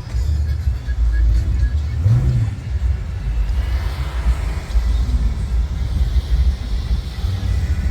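A motor vehicle's engine running with a steady low rumble, with a brief swell of sound about two seconds in and a noisier stretch in the middle.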